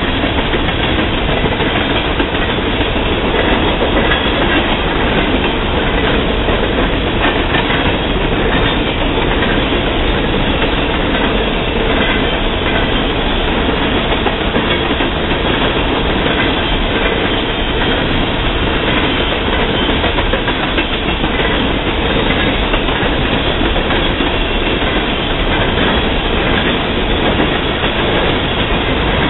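Coal hopper cars of a freight train rolling steadily past, a constant rumble of wheels on rail with occasional clicks as the wheels cross rail joints.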